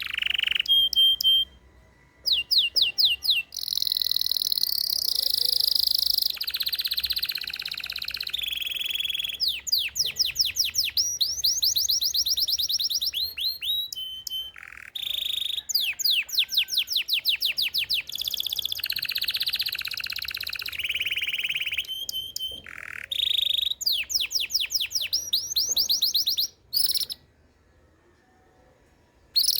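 Belgian canary singing: phrases of fast trills and rapidly repeated upsweeping notes, with short pauses between phrases. The song stops near the end.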